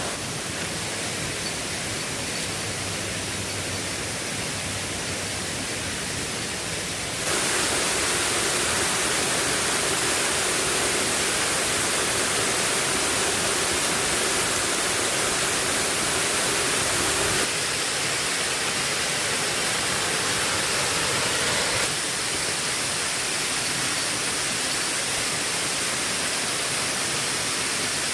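Heavy rain: a steady, dense hiss. It jumps louder and brighter suddenly about seven seconds in, and shifts abruptly again twice later on.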